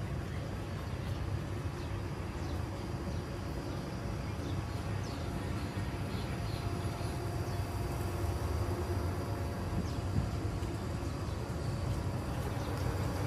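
Steady low rumble of distant city traffic, with a few faint bird chirps a few seconds in.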